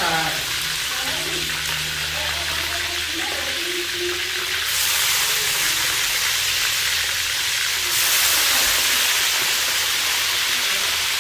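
A whole frog frying in hot oil in a wok, sizzling steadily. The sizzle grows louder about five seconds in and again about eight seconds in.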